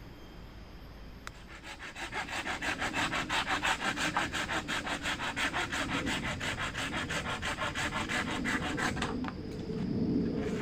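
A hand saw cutting through wood in fast, even strokes, about five a second, starting about a second in and stopping shortly before the end.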